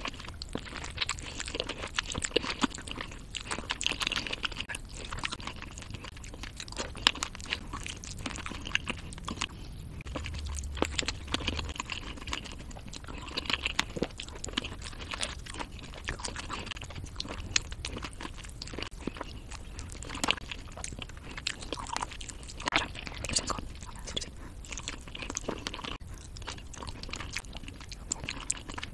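Close-miked eating of rotisserie chicken: biting and chewing meat and crisp skin, with pieces pulled apart by hand. Many small mouth clicks and smacks at an uneven pace.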